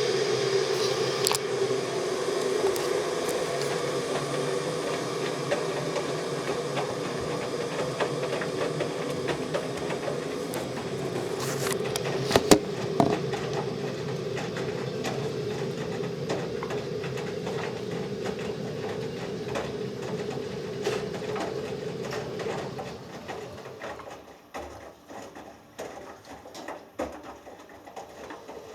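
Hoover Dynamic Next front-loading washing machine running its drum with a steady motor hum during the wash, with a couple of sharp knocks about 12 seconds in. The drum stops a few seconds before the end, leaving a few faint clicks and knocks.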